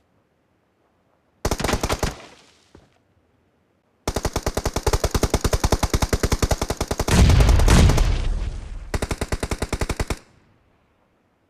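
Video-game automatic gunfire: a short burst of rapid shots about a second and a half in, then a long run of rapid shots from about four seconds in, heaviest and deepest around seven to eight seconds, stopping about ten seconds in.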